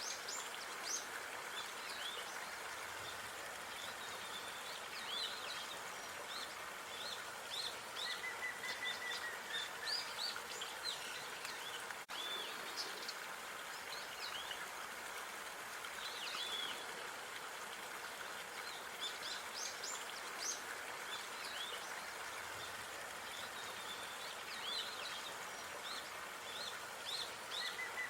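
Outdoor park ambience: small birds chirping and twittering in short scattered calls over a steady background hiss, with a brief trill now and then. The level dips for a split second about twelve seconds in.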